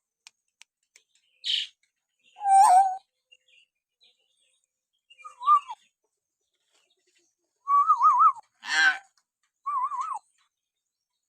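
Hill myna giving a series of short calls: several clear warbling whistles that waver up and down, interspersed with harsh, raspy calls, with pauses of a second or two between them.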